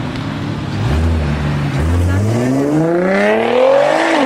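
Car engine accelerating hard in a drag run: a short low rev, then an engine note climbing steadily in pitch for about two seconds, which drops sharply near the end and keeps pulling.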